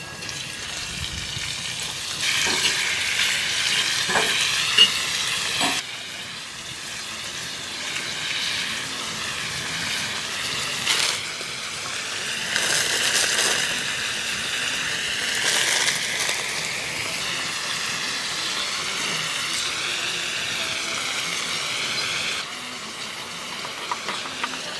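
Food sizzling as it fries in a pan, a steady hiss that swells and eases, with a few sharp pops.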